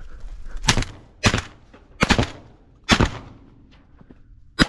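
Shotgun fire from several hunters: five loud shots, unevenly spaced over about four seconds, each ending in a short echo.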